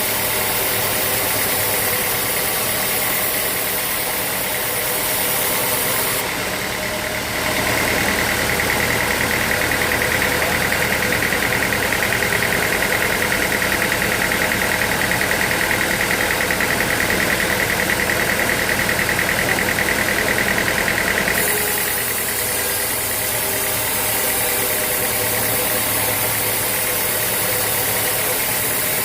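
Sawmill machinery running steadily. From about seven seconds in, a higher steady whine joins for about fourteen seconds, then drops away again.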